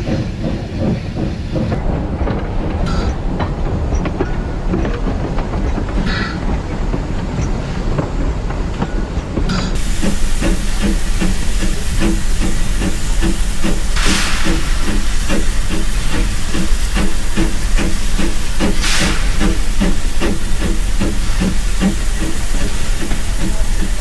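Steam locomotive working up close, with a steady rhythmic beat. The sound grows louder and brighter about ten seconds in, and two short bursts of steam hiss come later.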